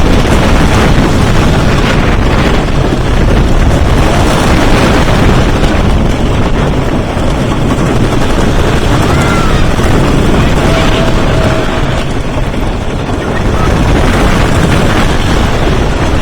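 Wooden roller coaster train running over the track with a steady loud rattle and rumble, wind buffeting the microphone.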